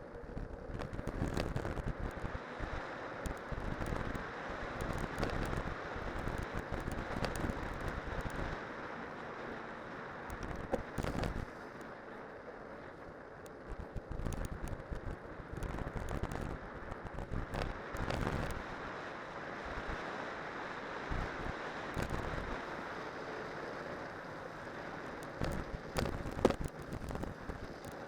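Cyclocross bike on studded winter tyres rolling downhill over snow and ice: a steady rushing of tyre and wind noise that swells and fades, broken by frequent clicks and knocks as the bike goes over bumps.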